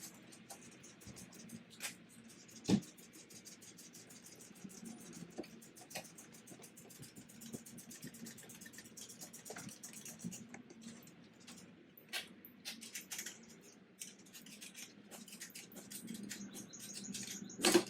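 Hand tools and metal parts being handled while working on the engine: light scattered clicks, scrapes and taps, with a sharper knock about three seconds in and a louder clatter near the end.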